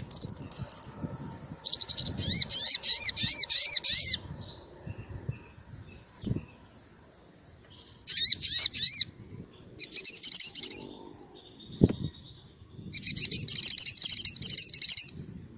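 Sogon (sogok ontong) sunbird singing: four bursts of fast, high-pitched trilled notes, each lasting one to two and a half seconds, with a few sharp single chips between them.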